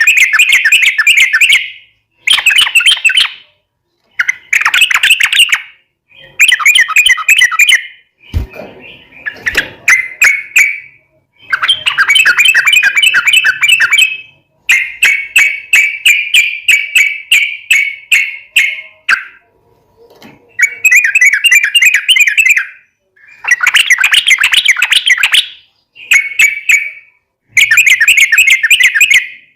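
Yellow-vented bulbul singing: long, rapid bubbling phrases of quick chirping notes, one to three seconds each, repeated over and over with short pauses between them.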